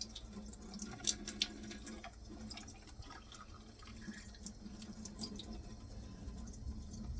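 Water running faintly from a tap through a dishwasher spray arm, flushing its openings to check that none are clogged, with a few light clicks about a second in. A faint steady hum lies underneath.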